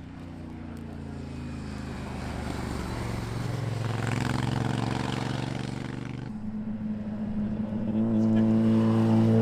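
Street motorcycle engines passing: one bike's engine note swells, peaking about four to five seconds in, then the sound switches abruptly to another bike whose engine note holds steady and grows louder near the end.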